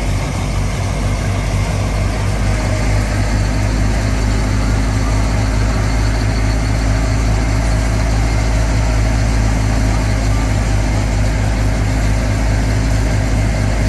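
Fiat 480 tractor's diesel engine running at a steady pace while driving a wheat thresher machine, a loud, even, low hum with the thresher's running noise over it.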